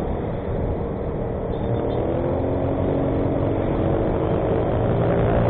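Motorcycle engine running while riding, its pitch and loudness rising slowly as it speeds up.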